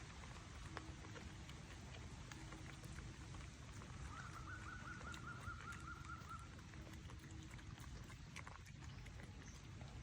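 Faint outdoor background with scattered small clicks and knocks, and a short rapid trill about four seconds in.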